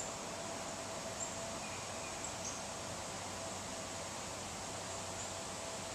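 Steady outdoor ambience over floodwater: an even hiss with a few faint, short, high chirps from birds or insects.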